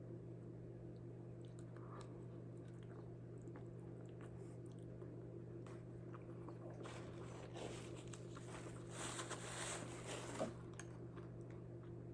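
A person chewing a mouthful of a soft, cheese-covered bean burrito, with soft wet mouth sounds and small clicks gathering from about seven seconds in. A steady low hum runs underneath.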